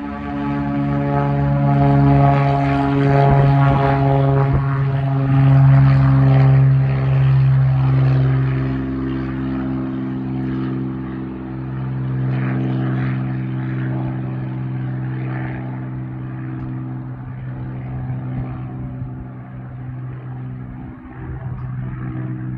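Cessna Centurion single-engine propeller plane at takeoff power, a steady piston-engine and propeller drone. It is loudest in the first several seconds, then fades gradually as the plane departs.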